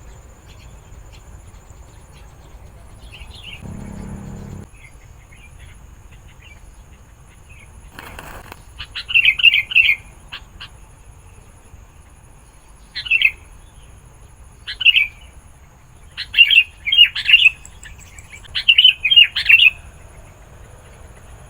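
Sooty-headed bulbul calling: short bursts of quick, warbling chirps, faint at first, then loud and repeated about five times in the second half, the last bursts longest.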